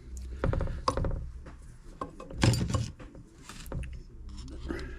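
Clicking and light clatter of small metal parts worked by hand: the choke flapper and its return spring on a Tecumseh engine's carburetor. The flapper rubs on a port, so the spring can't snap it fully shut. The loudest clicks come about half a second in, near one second and around two and a half seconds.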